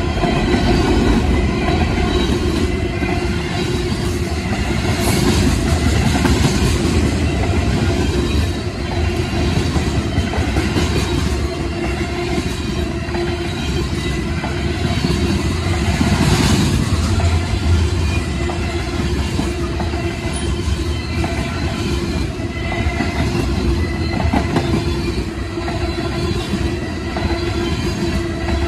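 Freight train cars (tank cars and covered hoppers) rolling past: a steady, loud rumble and clatter of steel wheels on the rails.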